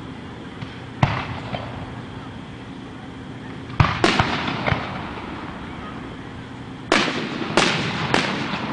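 Aerial firework shells bursting: one bang about a second in, a quick pair a little before halfway, then three bangs close together near the end, each trailing off briefly.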